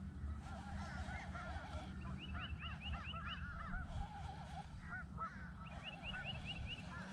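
A flock of geese honking, many short calls overlapping continuously, over a steady low hum.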